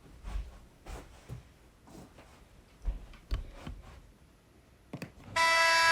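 Scattered knocks and clacks of plastic mini hockey sticks and ball during knee-hockey play, then, about five seconds in, a loud steady hockey horn starts abruptly: the end-of-period horn.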